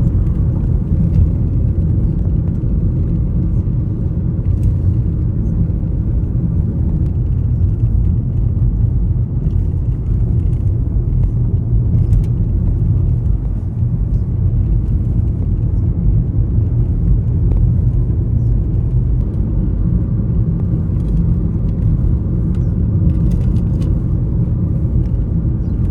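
Steady low rumble, typical of a moving vehicle, with a few faint ticks scattered over it.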